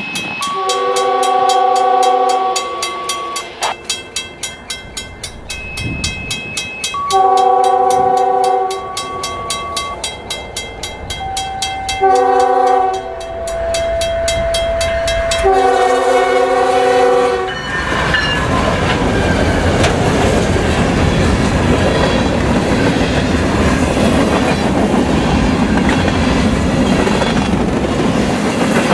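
Grade-crossing bell ringing steadily while a CSX freight locomotive's multi-note air horn sounds the crossing signal: long, long, short, long. From about eighteen seconds in, the train rolls over the crossing with the steady noise and clatter of freight-car wheels on the rails.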